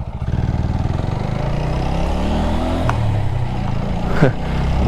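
TVS Apache 4V motorcycle's single-cylinder engine running while the bike is ridden, its revs climbing about halfway through as it accelerates.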